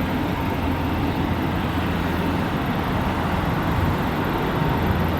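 Tour boat's motor running steadily with a low hum as the boat moves along the river.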